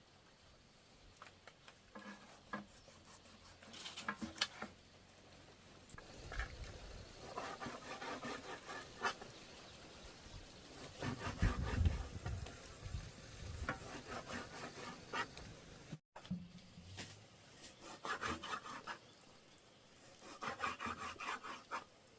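Rough scraping strokes in several bouts of quick repeated strokes, with scattered clicks and knocks in between.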